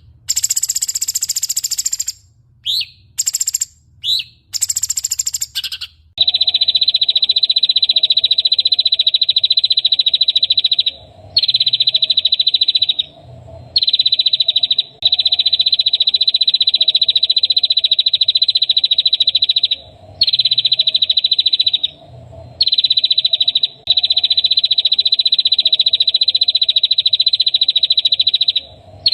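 Recorded songbird calls for training cage birds. Sharp, very high chirps come first, and about six seconds in they give way to a loud, rapid buzzing trill. The trill is repeated in long phrases of several seconds with short breaks between them.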